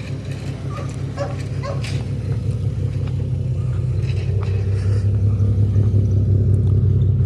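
The 2003 Infiniti G35 sedan's 3.5-litre V6 idling with a steady low hum that grows gradually louder, with a few faint clicks over it in the first few seconds.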